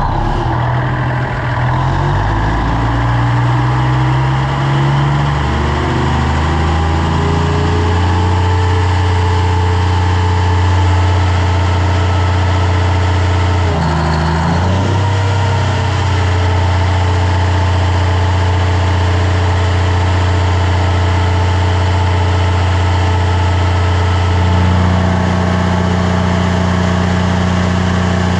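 Cummins 400 kW diesel generator engine running just after start-up, its pitch rising over the first several seconds as it comes up to speed and then holding steady. About halfway through the pitch dips briefly and recovers, and near the end the tone shifts slightly.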